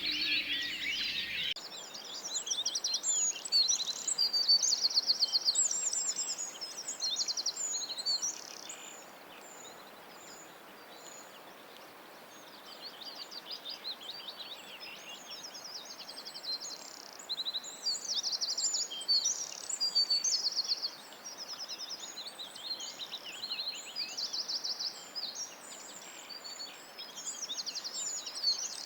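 Several songbirds singing: quick high chirps and rapid trills overlapping, thinning out for a few seconds near the middle. Before this, a different high hiss stops abruptly at a cut about a second and a half in.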